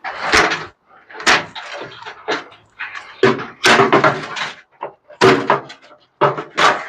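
Irregular knocks, bangs and rattles of metal parts being pulled and yanked out of a microwave that is being stripped for scrap.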